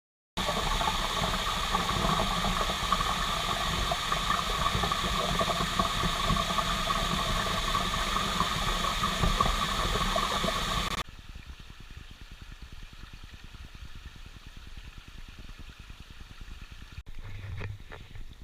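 River water rushing, loud and steady at first, then cutting abruptly to a quieter, more distant rush about eleven seconds in, with a few faint knocks near the end.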